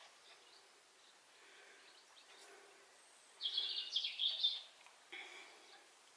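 A songbird singing a short, loud phrase of song a little after halfway, then a shorter call about a second later, over faint background chirping.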